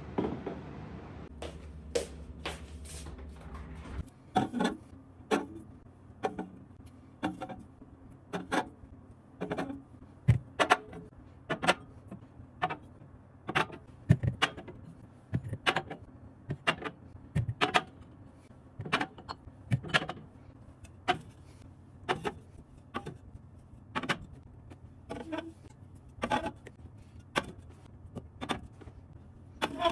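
Light knocks and clicks of objects being handled and set down one after another, about one a second. A low hum stops about four seconds in.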